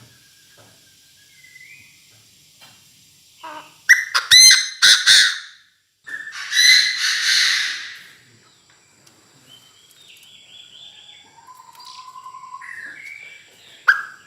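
Chinese francolin calling: a loud harsh call about four seconds in and a second rougher one that carries on for about two seconds, then softer whistled notes. This is a caged decoy bird calling to draw wild francolins.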